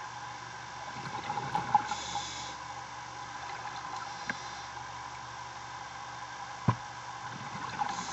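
Steady hiss of underwater diving audio, with bursts of bubbling about a second in and again near the end, and one sharp knock a little before the end.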